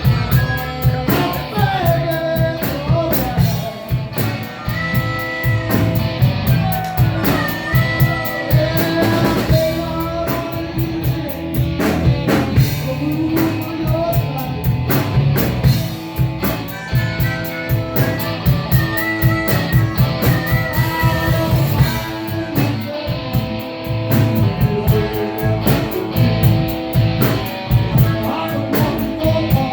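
Rock band playing: electric guitar leads with bent notes over bass and a drum kit.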